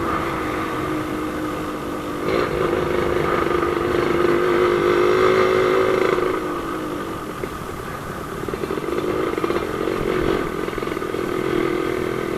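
Yamaha RX-King two-stroke single-cylinder motorcycle engine running under way. The revs rise about two seconds in, ease off around six seconds, and build again from about eight seconds.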